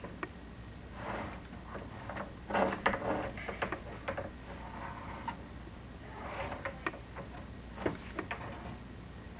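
Chimney inspection camera and its rod moving down a creosote-lined flue, with irregular scraping rubs and sharp clicks and knocks as the head brushes and taps the flue walls.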